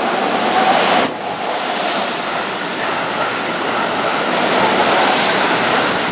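Keihan 3000-series electric train pulling into the platform and running past close by: a steady rushing of wheels on rail and moving air.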